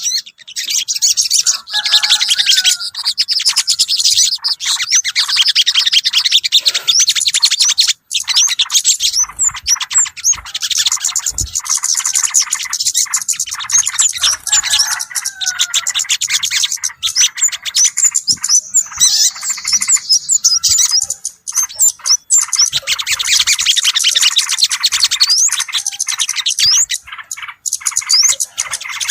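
Bird-lure recording of many small birds chirping and twittering in a dense, unbroken chatter, with yellow-vented bulbul (trucukan) calls among them.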